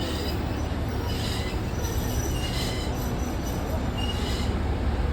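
Wheels of an Alishan Forest Railway narrow-gauge train squealing in several short high-pitched bursts over a steady low rumble as it pulls into the station.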